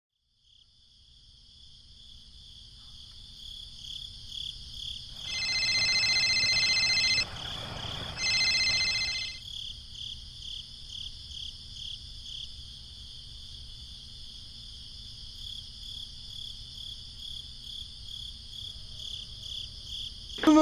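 Steady high-pitched insect chorus, pulsing, fading in from silence over the first couple of seconds. It is twice overlaid by a louder high ringing tone, first for about two seconds and then for about one.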